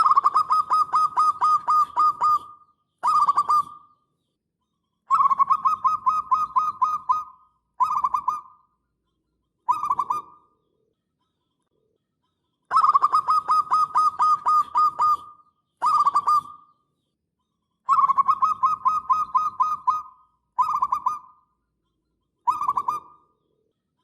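Zebra dove (perkutut) singing its cooing song: four long phrases of rapid, evenly pulsed coo notes, each followed by one or two short bursts, with short silences between phrases.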